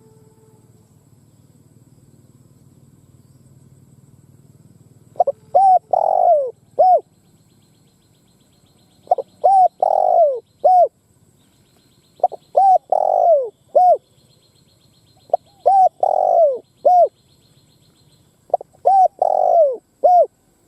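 Spotted dove cooing: five phrases, the first about five seconds in and then one every three seconds or so. Each phrase has four notes, the third long and falling in pitch.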